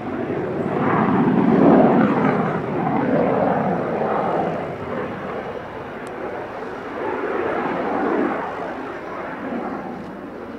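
BAe Hawk Mk 51 jet trainer flying a display pass, the roar of its Rolls-Royce Turbomeca Adour turbofan swelling loudest about two seconds in, fading, and swelling again near the end.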